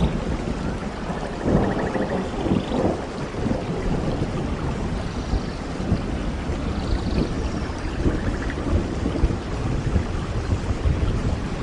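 Steady rain falling, with a low rumble of thunder that swells a second or two in.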